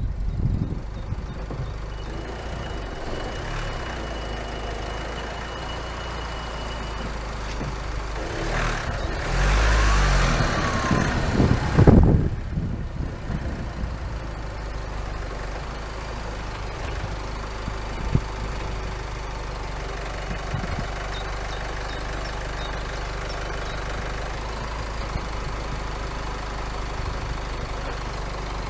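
An engine idling steadily. About nine seconds in, a louder rushing sound swells for about three seconds and ends in a sharp knock.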